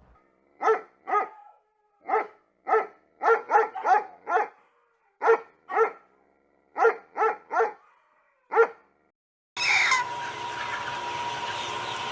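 A dog barking: about fourteen short, sharp barks in irregular groups of one to four. Near the end the barking stops, and a steady noisy background with a constant high tone takes over.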